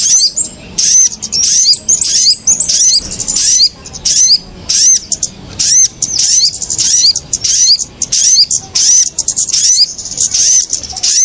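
Bird-trapping lure recording of small birds, kemade and sogok ontong, calling excitedly. The high, arching chirps overlap densely at several a second, with no pause.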